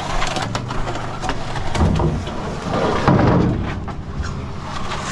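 Small engine of a mobile mud mixer running steadily, with irregular scraping and knocks over it and two louder scraping swells about two and three seconds in.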